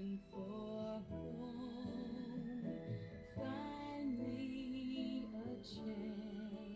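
A song played from a vinyl record: a woman singing with vibrato over an instrumental accompaniment.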